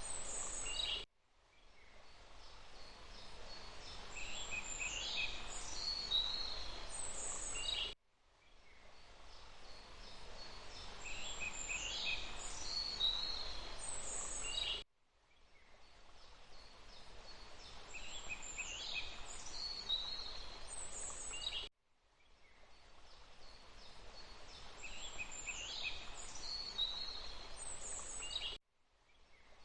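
Forest ambience: small birds calling and chirping in short high notes and downward glides over a steady hiss. The same few seconds of recording repeat about every seven seconds, each time cutting out abruptly and fading back in: a looped nature track.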